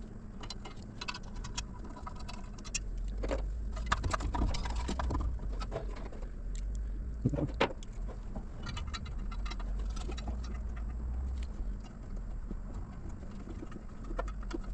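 Metal hand tools and bolts clinking and tapping in irregular small knocks while exhaust manifold bolts are being worked, with a low steady hum underneath.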